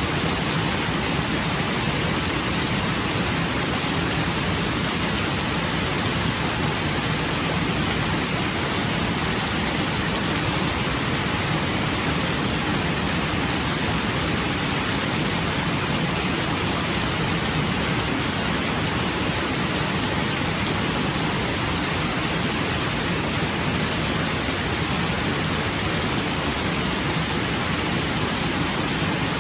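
Steady rain falling: an even, unbroken hiss of rain with no breaks or distinct drops standing out.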